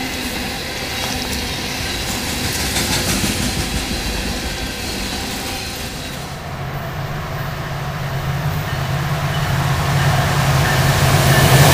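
Coal hopper cars rolling past with steady wheel and rail noise, then a BNSF diesel locomotive approaching, its engine's low steady drone growing louder toward the end.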